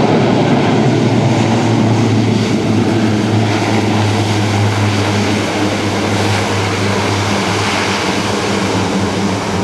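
Lockheed C-130J-30 Hercules on its landing roll, its four turboprops with six-bladed Dowty propellers in reverse pitch: a loud, steady propeller drone over a rushing roar as the reverse thrust brakes the aircraft to a stop.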